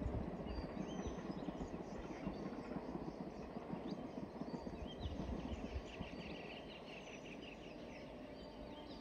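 Distant passenger train running along the track, its rumble slowly fading as it moves away, with small birds chirping and a quick trill of bird notes late on.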